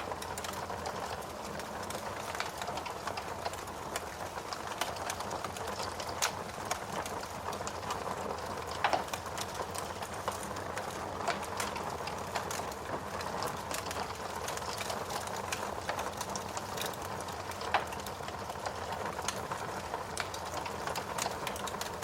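Fire burning in a fireplace: a steady hiss with frequent small crackles and a few louder sharp pops.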